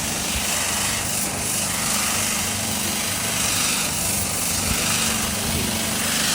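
A machine running steadily with a low hum, under a loud hiss that swells and fades every second or two.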